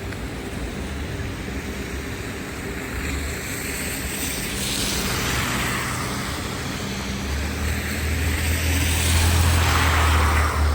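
City street traffic: vehicles passing with a hiss of tyres, swelling twice, the louder pass about nine to ten seconds in.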